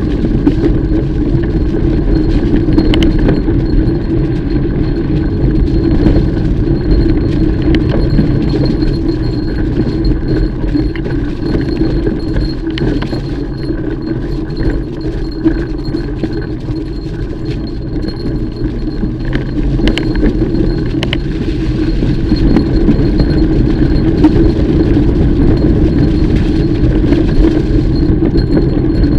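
Mountain bike being ridden over a dirt trail: a steady rumble of tyres on the ground, with light rattling and clinking from the chain and bike parts over bumps.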